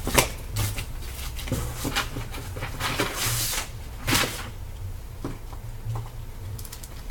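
Handling noise from trading-card boxes and their packaging on a table: a few sharp knocks and taps, with a short rustle about three seconds in.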